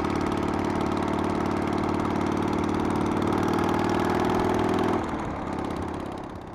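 Harley-Davidson Sportster's air-cooled V-twin engine running steadily. It drops quieter about five seconds in, then fades away.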